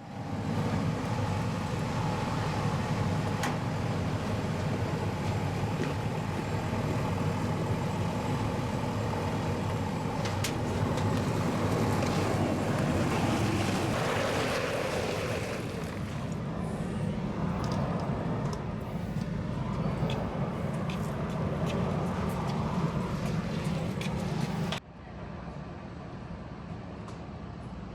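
Fire engine running with its pump engaged after water is called for, a steady low engine noise. A hiss swells briefly about halfway through, and near the end the noise drops suddenly to a quieter steady background.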